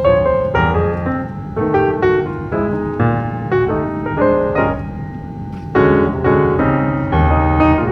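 Background piano music, a melody of quick, struck notes over chords.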